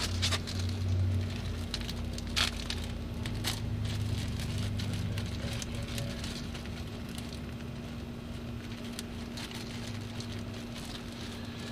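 Bolts and hand tools being handled: a few light clicks and taps, spaced irregularly, over a steady low hum.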